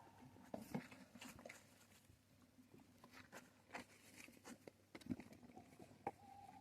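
Faint owl hoots over near silence, with one long drawn-out hoot near the end. Scattered small clicks and crunches are heard as well.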